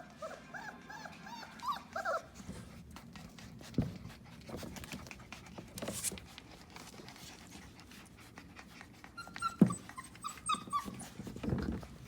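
Four-week-old puppies whimpering and squeaking in short, high-pitched yelps: a cluster in the first two seconds and another near the end. Scattered knocks and thumps fall in between, the loudest about nine and a half seconds in.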